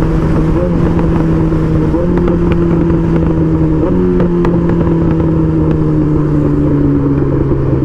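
Suzuki GSX-R1000 inline-four motorcycle cruising, its engine a steady drone that shifts slightly in pitch a few times, over constant wind rush.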